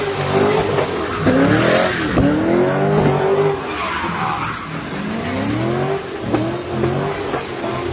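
A drifting car's engine revving up and down again and again as it slides, with its tyres squealing, loudest about four seconds in.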